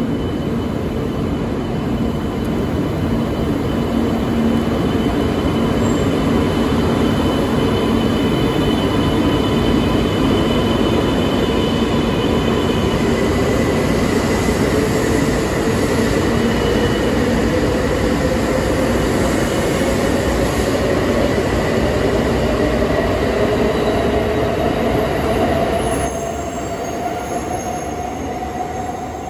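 E2 series Shinkansen train pulling out of the station and accelerating past: a steady rumble of wheels on rail, with the traction motors' whine rising slowly in pitch as it gathers speed. The sound drops suddenly near the end as the last car goes by.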